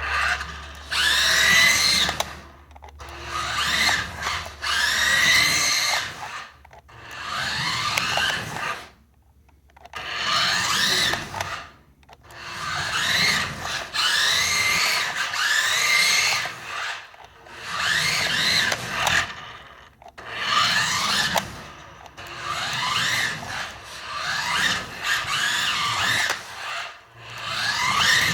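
Tyco Twin Turbo Porsche RC car's twin electric motors whining in about a dozen bursts of full throttle, each a second or two long. The pitch rises as the car speeds up and drops off between runs.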